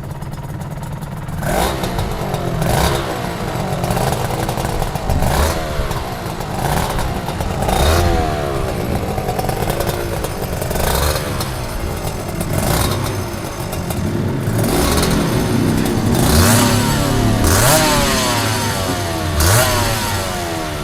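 Aprilia RS250's two-stroke V-twin engine being revved over and over, the pitch climbing sharply and dropping back every second or two, then settling briefly before the next blip.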